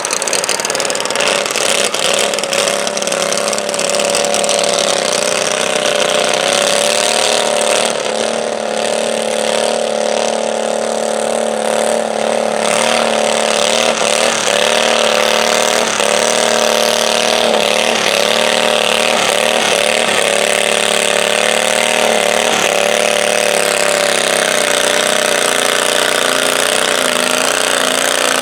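Stock garden tractor's small engine running hard under load while dragging a stoneboat pulling sled, its pitch dipping and recovering repeatedly through the second half of the run.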